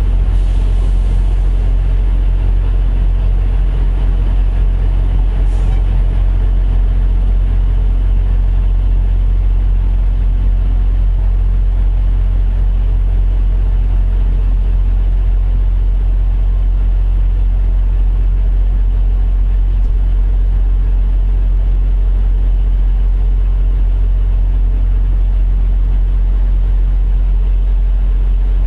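Semi truck diesel engine idling steadily with a deep, even drone. A short hiss comes once at the very start and again about five and a half seconds in.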